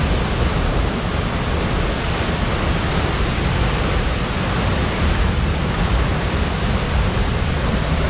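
Loud, steady rush of the Steindalsfossen waterfall's falling water, unchanging throughout.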